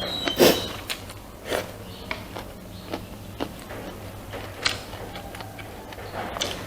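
A person eating: irregular chewing and mouth smacks with small clicks, and a brief ringing clink near the start, over a steady low hum.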